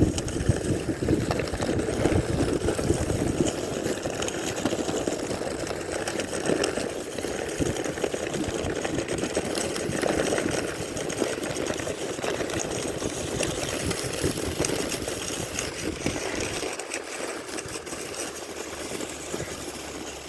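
Wooden sled (sika) running over snow: a continuous rough scraping rumble full of fine crackles, its deepest part dropping away near the end.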